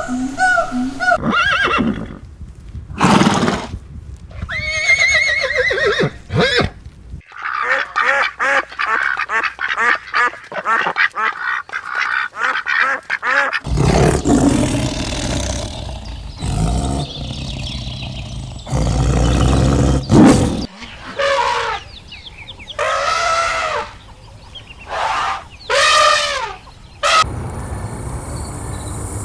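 A run of farm animal calls cut one after another, ducks quacking and geese honking among them, with a stretch of fast repeated calls in the first half.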